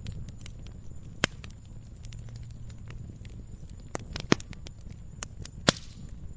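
Burning firewood logs crackling, with irregular sharp pops over a low steady rumble of the flames; three louder snaps stand out, about a second in, past the four-second mark and near the end.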